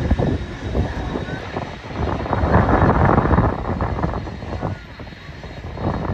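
Strong wind buffeting the microphone in gusts, loudest from about two and a half to three and a half seconds in, over the steady whine of jet airliner engines.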